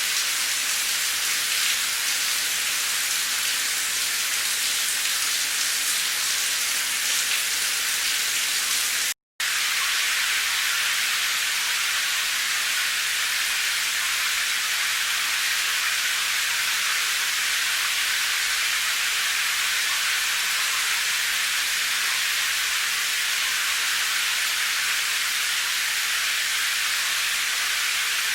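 Steady heavy rain, a dense even hiss with little low rumble, cutting out completely for a split second about a third of the way in.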